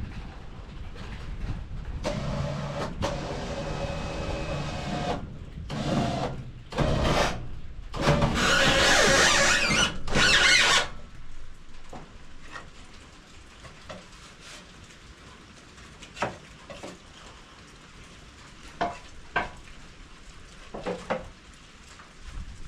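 MechMaxx SM32 band sawmill at work on an oak log: machine running with a steady hum, then a series of louder noisy bursts, the loudest lasting about three seconds around the middle and cutting off sharply, followed by quieter running with scattered knocks.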